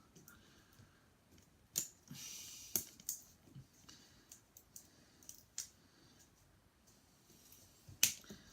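Sharp clicks and light handling noise of thin laser-cut plywood model parts being picked up and fitted, with three louder clicks and a brief scrape just after the second.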